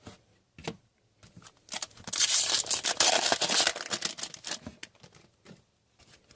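A foil pack of Upper Deck hockey cards being torn open and crinkled: a loud tearing stretch starting about two seconds in and lasting a couple of seconds, with light clicks of cards being handled before and after.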